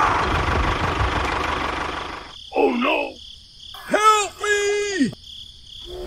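Tractor engine sound running steadily and fading out about two seconds in. It is followed by a few short, high, voice-like pitched sounds, the last falling in pitch as it ends.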